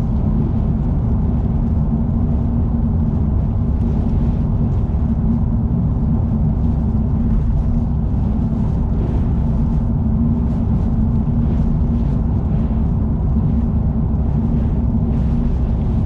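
A car driving at expressway speed: a steady low rumble of road and engine noise, with faint hissing surges that come and go.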